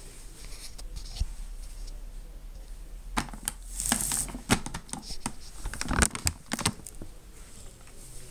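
Boxed fireworks and their plastic wrapping being handled: rustling and crinkling with a run of light knocks and taps, busiest in the middle.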